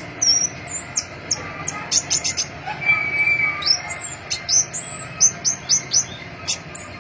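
Crimson-breasted flowerpecker (pentis pelangi) calling: a quick, irregular series of short, high chirps and sharp ticks, some sliding in pitch, over a steady background hiss.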